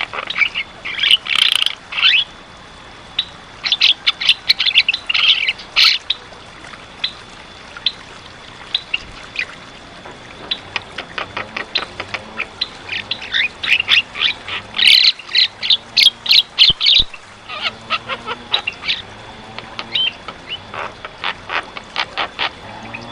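Javan myna in full song, a rapid run of harsh chirps, clicks and squawks in dense bursts with short gaps of scattered single calls.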